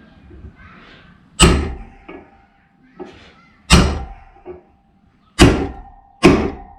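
Hammer blows driving a wheel bearing into a motorcycle's front hub: four hard metallic strikes a second or two apart, each leaving a brief ring, with a few lighter taps between, until the bearing bottoms out in its seat.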